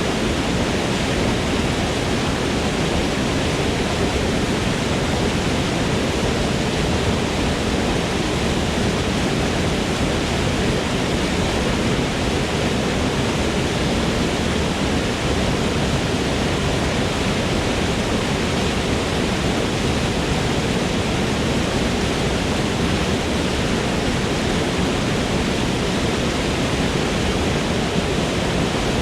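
Waterfall rushing: a steady, full roar of falling water that stays even throughout.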